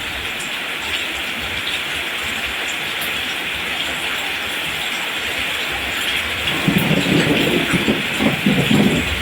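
Steady rain falling, an even hiss. About six and a half seconds in, a low rumble of thunder swells and rolls for a couple of seconds.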